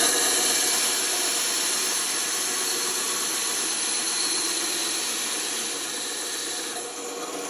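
A workshop power tool running steadily with a loud hiss, which drops away near the end.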